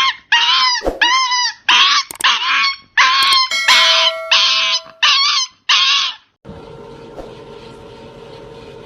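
A dog giving about ten loud, high-pitched, arching yelps in quick succession. About six seconds in they give way to a steady background hum.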